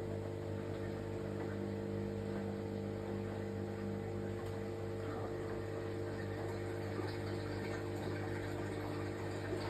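Washing machine running, with a steady motor hum and whir.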